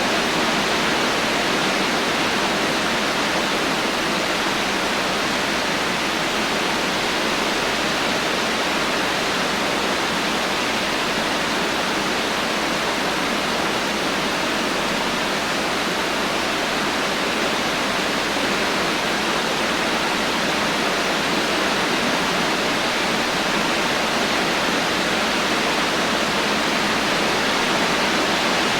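Heavy rain falling steadily, an even rushing hiss with no thunder.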